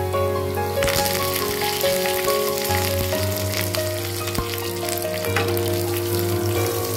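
Whole spices, bay leaves and green chillies sizzling in hot ghee in a pan, the sizzling getting louder about a second in. Background music plays a simple stepped melody over it.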